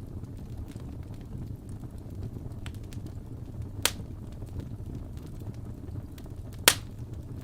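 Wood fire burning in a fireplace: a steady low rumble of flames with small crackles throughout, and two loud sharp pops from the burning logs, about four seconds in and again near the end, the second the louder.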